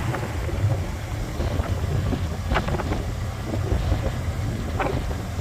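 Muscle car engine idling with a low, steady rumble.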